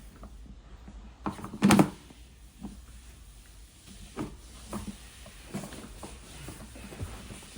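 Toy cars being handled by a toddler: scattered knocks and clacks as they are picked up, set down and bumped together, with one loud knock a little under two seconds in.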